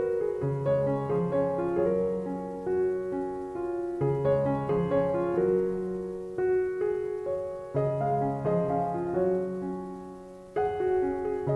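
Background music: a gentle piano melody played in slow phrases, each note ringing and fading.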